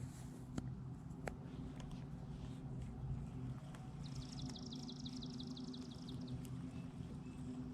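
A bird's trill of about a dozen quick, down-slurred high notes, lasting about two seconds and starting about four seconds in. Under it runs a steady low hum with scattered light clicks.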